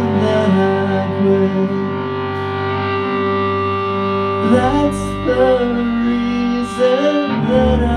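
Live band playing a song: guitars and bass, with a sliding melodic line that may be a voice or a lead instrument.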